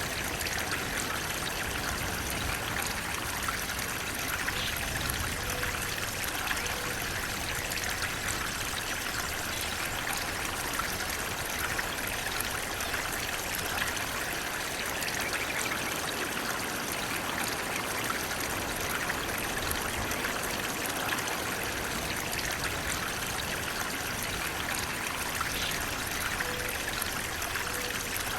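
Flowing water, running steadily as one even, unbroken rush.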